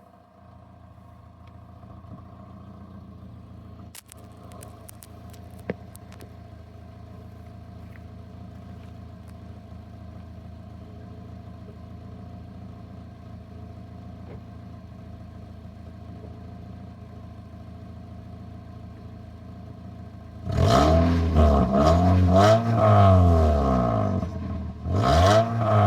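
Toyota Corolla's engine idling steadily, with a few light clicks around four to six seconds in. A little over twenty seconds in it is revved hard in repeated blips, the pitch climbing and falling with each, with a brief drop back before the revving resumes near the end.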